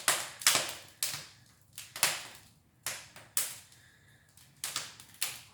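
Wood fire crackling in a brick fireplace: about eight sharp, irregular pops and cracks, each dying away quickly.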